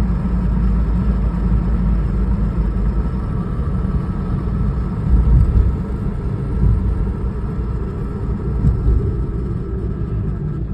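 1996 Toyota Starlet driving at speed: a steady, loud low rumble with the rattling, grinding noise that comes on only once the car is going fast enough, which the owner wonders may be a gear problem.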